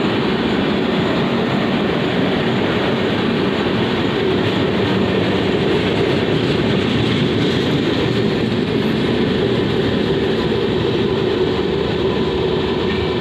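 Humsafar Express LHB passenger coaches running past on the track, a steady loud noise of wheels on the rails.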